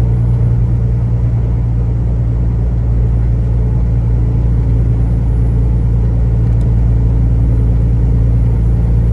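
Semi-truck under way: a steady, loud low drone of diesel engine and road noise while driving.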